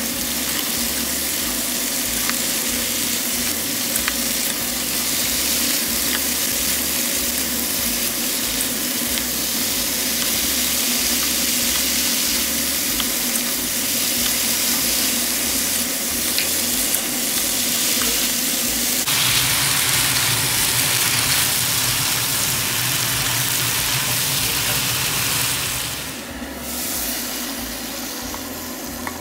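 Beef and cauliflower stir-frying in a hot pan: a steady sizzle with the light clicks and scrapes of a slotted spatula tossing the food. The sizzle grows quieter near the end.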